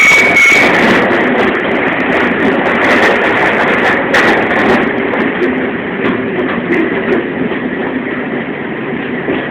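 Alishan Forest Railway narrow-gauge train running: a steady rumble and rattle of the carriages on the track, with a high wheel squeal fading out in the first second and a single sharp click about four seconds in.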